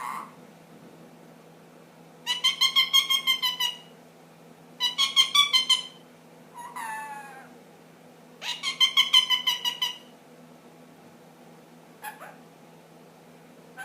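Ringneck parakeet making three harsh, rapidly pulsed chattering calls, with a falling squawk between the second and third and a short call near the end.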